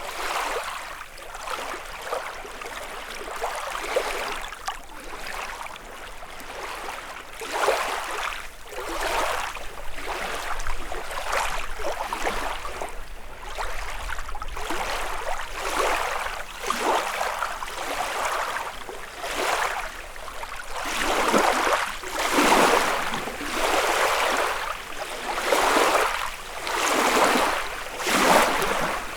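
Small lake waves lapping on the shore, a soft wash of water about once a second that grows louder and slower, about every second and a half, in the last third.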